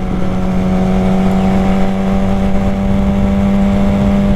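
Street motorcycle engine running at a steady, even speed while being ridden, with wind rumble on the rider's microphone underneath.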